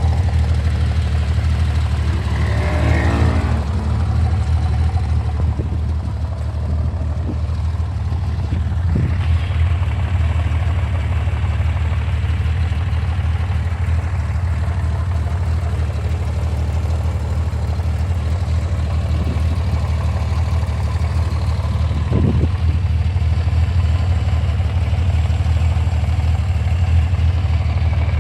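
Honda CBX1000 air-cooled inline-six motorcycle engine idling steadily.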